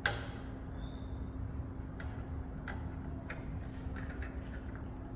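Small clicks and taps of hands handling computer hardware: one sharper click at the start, then several lighter clicks at uneven intervals, over a steady low hum.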